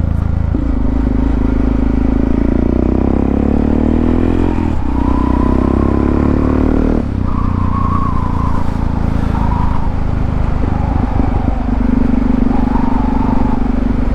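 Motorcycle engine accelerating, its pitch rising through one gear, dropping briefly at a shift about five seconds in, rising again, then settling into a steady pull after another change about seven seconds in.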